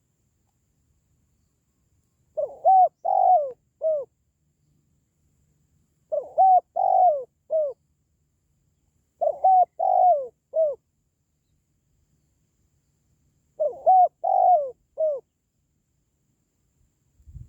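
Spotted dove cooing its calling song: four phrases of about four short coos each, spaced three to four seconds apart.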